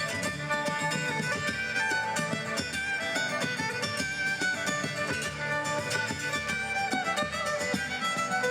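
Live Celtic folk band playing a tune, with a fiddle carrying the melody over a steady beat.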